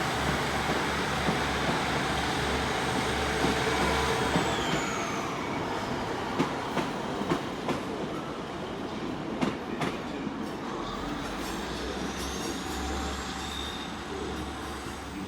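A train running on the station tracks: a steady rumble and a low hum, with a thin high wheel squeal, and irregular clicks about halfway through as the wheels pass over rail joints and points.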